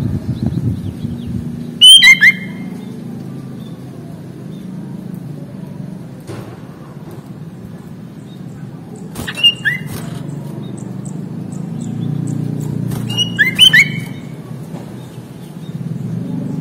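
Sooty-headed bulbul (kutilang) giving short, quick bursts of chirping notes three times: about two seconds in, near the middle and near the end. Under the calls runs a steady low rumble.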